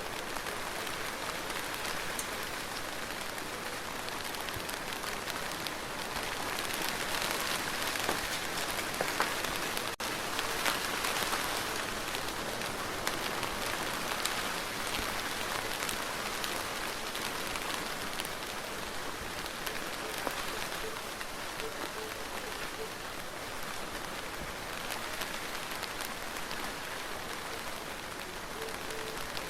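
Steady rain falling, a continuous even patter of drops that swells slightly for several seconds in the middle.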